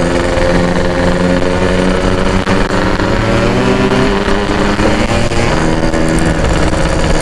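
Kawasaki Ninja 150 SS two-stroke single-cylinder engine running under way. Its pitch rises and falls a few times as the throttle and gears change.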